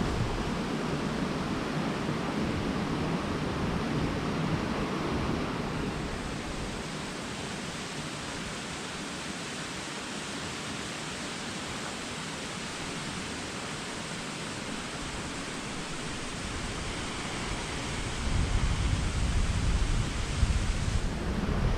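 Steady rushing of a waterfall. A low rumble, like wind on the microphone, comes in near the end.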